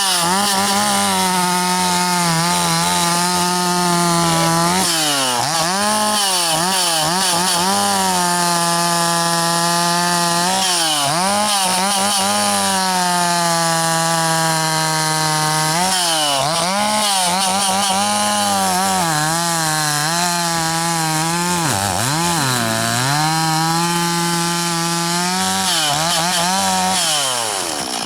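Two-stroke gas chainsaw bucking firewood: the engine is held at high revs through long cuts. Several times its pitch sags and swoops back up, and near the end it drops away as the throttle is let off.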